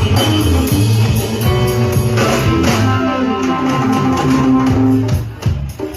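Live band music at a soundcheck, led by guitar over held low notes, with a run of stepping notes in the middle and a brief drop in loudness near the end.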